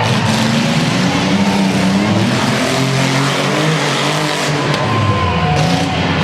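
Off-road competition truck's engine revving hard and unevenly, its pitch rising and falling as the throttle is worked.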